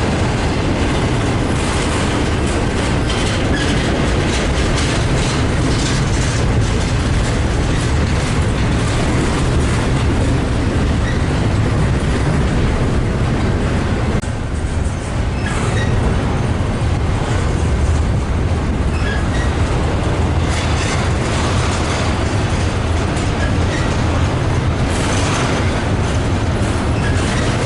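A train's cars rolling past on the rails: a steady, loud rumble with scattered clicks and faint brief wheel squeals, easing off briefly about halfway through.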